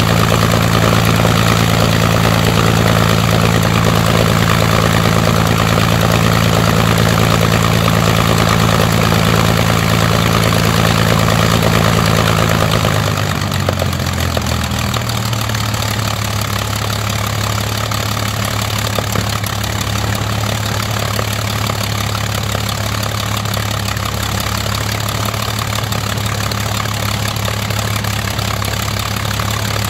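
Rolls-Royce Merlin V12 aero engine running steadily, then throttled back about halfway through, its pitch sliding down and settling into a lower, steady run.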